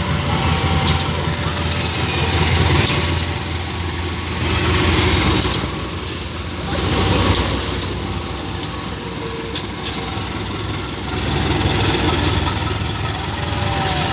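An engine running steadily with a low hum that swells and eases, with a few sharp clicks scattered through it.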